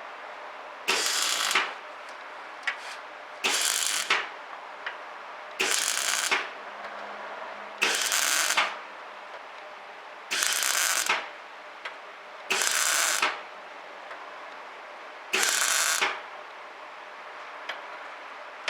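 Semi-automatic (MIG) welder laying short stitch welds on a steel patch plate: seven short bursts of arc noise, each under a second, about two to three seconds apart.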